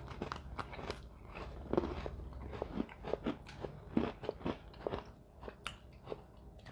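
Someone biting into and chewing a Toffee Crunch Oreo cookie: irregular crisp crunches, close to the microphone.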